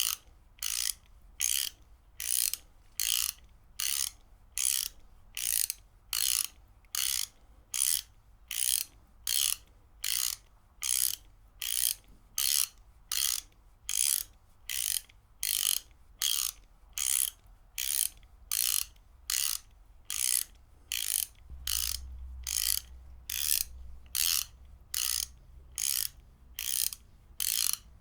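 Ratchet wrench worked back and forth without pause: a short rattle of pawl clicks on each stroke, about one and a half strokes a second, in an even rhythm.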